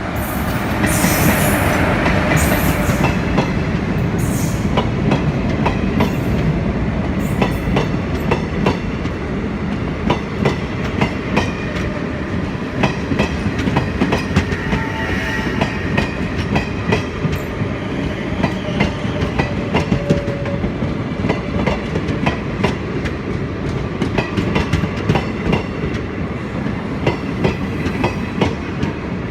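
Indian Railways train running at speed, its wheels clattering in a dense stream of clicks over the rail joints.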